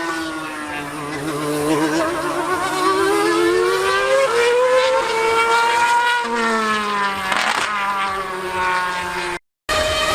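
High-revving racing engine accelerating: its note climbs steadily in pitch for several seconds, then falls away. The sound cuts out briefly near the end.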